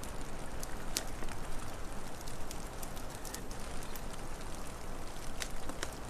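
Wood fire crackling, with scattered sharp pops, the loudest about a second in, over a steady low rushing hiss of wind.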